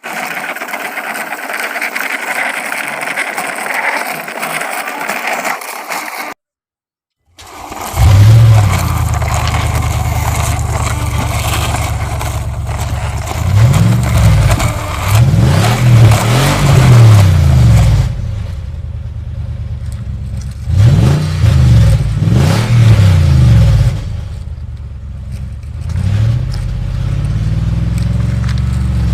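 About six seconds of rattling, scraping noise, a short break, then an engine running with a low, steady note, revved up and down several times in two clusters.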